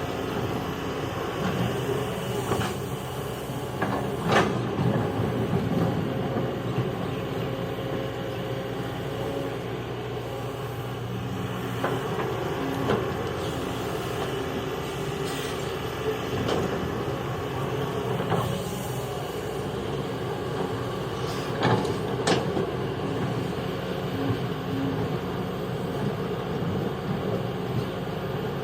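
Heavy diesel engine of an excavator running steadily, with a few sharp knocks and clanks scattered through.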